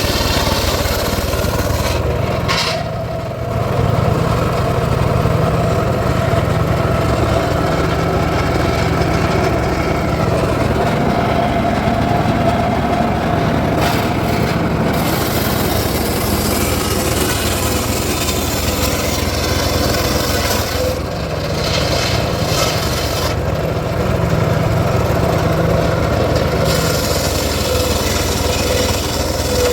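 Circular saw running and cutting teak wood: a steady, loud drone with a held whine that dips briefly twice, about three seconds in and again past the twenty-second mark.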